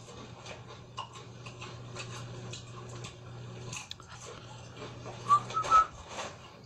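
Crunching of tortilla chips being chewed close to the microphone, a run of short crackly clicks over a steady low hum. A few short high squeaks come about five and a half seconds in.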